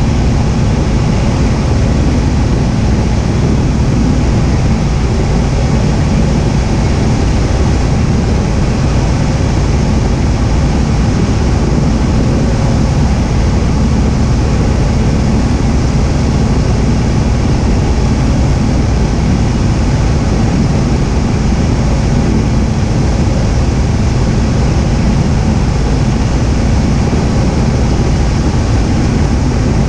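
Cessna 172H's engine and propeller heard inside the cockpit in flight: a loud, steady drone with a faint held tone.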